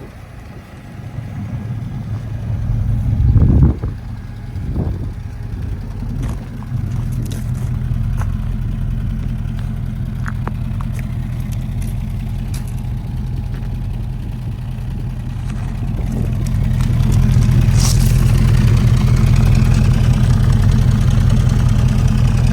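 350 cubic inch small-block Chevrolet V8 with aluminium heads idling with a steady low beat, with a brief louder burst about three and a half seconds in and growing louder in the last few seconds.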